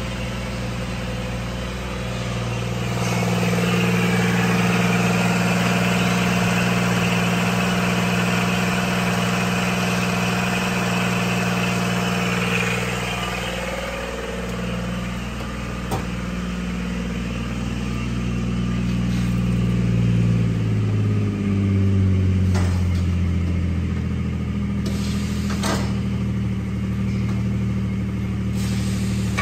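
2012 Mazda CX-9's 3.7-litre V6 engine running at idle. It is louder and hissier for several seconds early on, its pitch dips and resettles about two-thirds of the way through, and there are a few light clicks.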